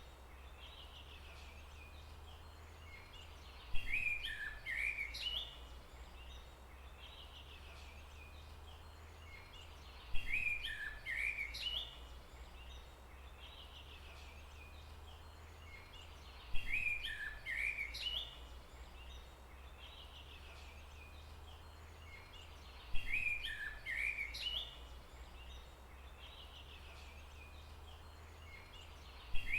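A songbird singing the same short chirping phrase of about two seconds, repeated about every six and a half seconds, five times in all, over a steady low hum and faint background hiss.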